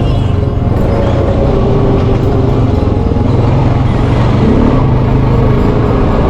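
Off-road vehicle engine running steadily under way, its pitch wavering a little as the throttle changes, with rumble from the ride.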